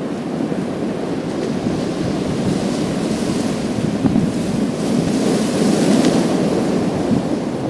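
Sea waves washing over a pebble beach: the surf swells toward a peak past the middle, with a rising hiss of water running through the stones, then eases slightly.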